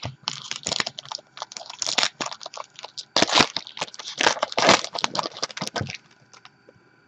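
Foil trading-card pack wrapper crinkling and tearing as it is handled and opened: a dense, irregular run of crackles that stops about a second before the end.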